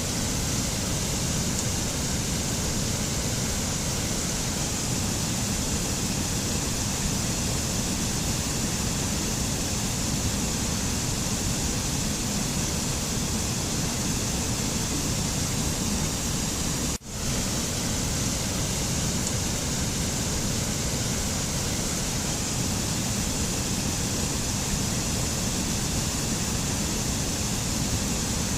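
Steady rushing noise of a mountain nature ambience, even and unchanging, with one brief dropout about seventeen seconds in.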